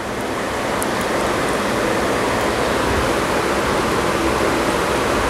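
Chopped vegetables sizzling steadily in hot oil in an iron kadhai, swelling a little over the first two seconds and then holding.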